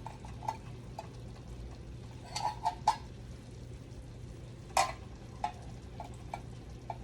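A utensil stirring and scraping food in a frying pan, with about nine sharp clinks and taps scattered through, the loudest just before five seconds in. Underneath is a faint sizzle of the food frying and a steady low hum.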